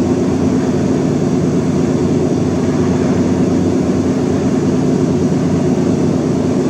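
A steady, loud droning hum that runs on without a break.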